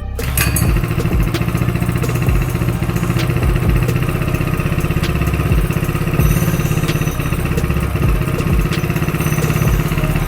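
Coleman CC100X minibike's small single-cylinder four-stroke engine idling steadily with an even firing beat, running after being reassembled and bolted back into the frame.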